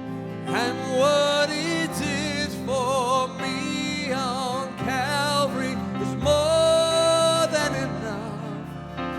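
Worship song: a solo voice sings long held notes with vibrato over a steady band accompaniment.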